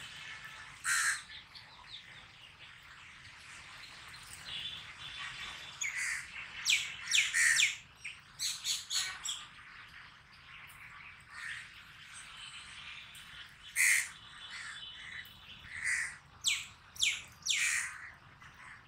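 Birds calling: sharp chirps and squawks in quick runs, clustered about a third of the way in and again near the end.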